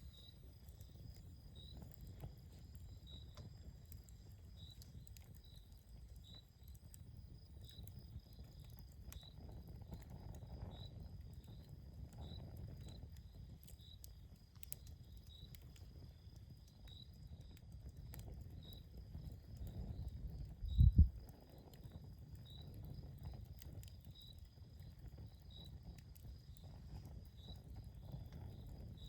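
Campfire burning, with scattered sharp crackles and pops over a low, steady rumble. A high chirp repeats about every 0.7 s over a steady high trill. About two-thirds of the way in comes a loud double low thump, the loudest thing here.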